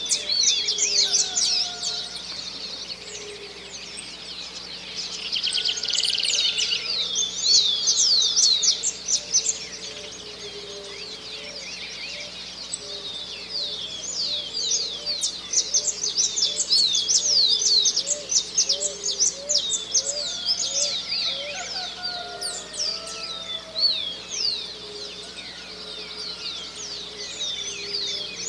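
Dawn chorus of many birds, with dense, rapid high-pitched chirps and trills overlapping throughout. Underneath, a lower-pitched bird repeats a call in a series of short, evenly spaced notes for several seconds.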